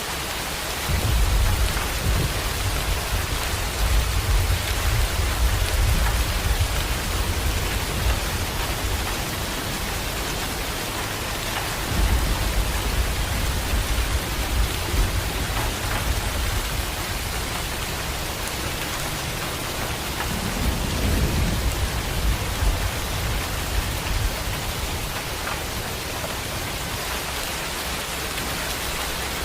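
Heavy rain falling steadily, with three long, low rolls of thunder: one starting about a second in, one about twelve seconds in, and a shorter one around twenty seconds in.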